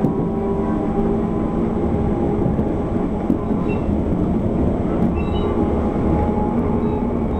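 SNCF Z 6400 electric train running along the line, heard from inside the carriage: a steady rumble of wheels and running gear with a hum of several steady tones. Faint brief high squeaks come about halfway through.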